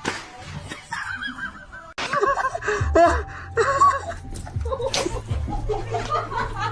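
A person laughing in quick bursts; the sound cuts out abruptly about two seconds in, then louder laughter follows.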